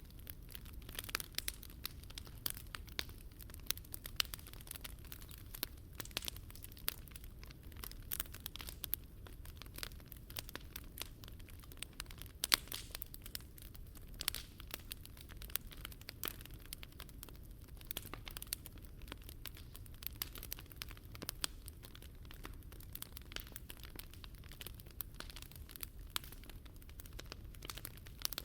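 Wood fire crackling in a Picogrill 398 fire stand, with frequent sharp irregular pops over a low steady rumble.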